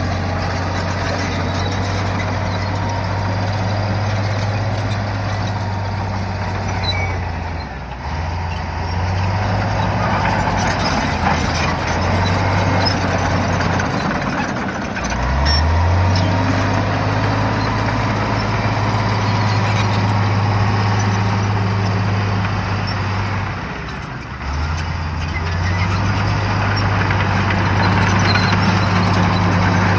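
Shantui bulldozer's diesel engine running under load: a steady low drone that sags three times and climbs back up in pitch each time, most clearly about halfway through. A dense noise from the working machine sits under it throughout.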